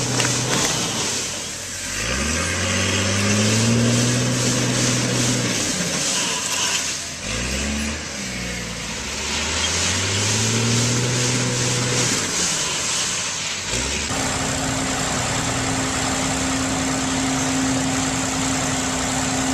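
A heavy machine's engine revs up, holds, drops, then revs up and holds again. After an abrupt change a second engine runs at a steady speed.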